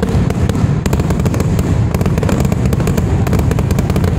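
Aerial fireworks exploding in a dense, loud barrage: many rapid bangs and crackles a second, with a deep rumble underneath.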